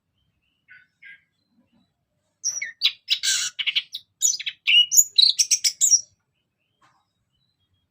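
Orange-headed thrush singing: two faint short notes, then about three and a half seconds of rapid, varied high-pitched warbling with whistled notes and buzzy phrases, which stops abruptly.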